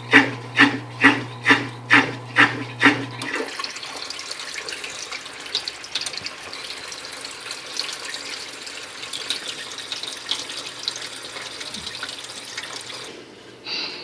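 A dishwasher's pump motor hums while water gurgles in regular pulses about twice a second. The hum and pulses stop about three seconds in, and water then splashes and rushes inside the tub until it dies away near the end.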